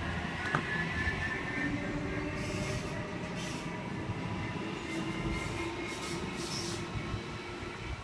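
Sydney Trains H-set (OSCAR) electric train pulling out along the platform, a steady motor whine over rumbling wheels that slowly fades. A few short high squeals from the wheels come in the middle.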